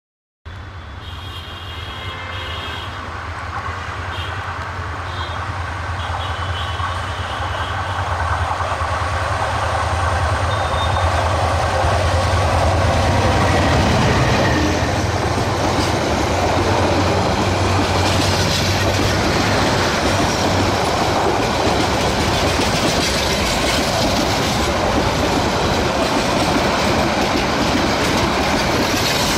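A GM-EMD GT18LA-2 diesel-electric locomotive hauling a passenger train past at speed. Its engine drone grows steadily louder over the first dozen seconds, then the coaches rush by with wheels clattering over the rail joints. The sound cuts in abruptly just after the start.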